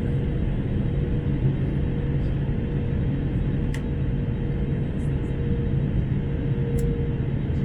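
Steady cabin noise inside an Airbus A321: a low rumble of engines and airflow with a constant hum, and a couple of faint ticks.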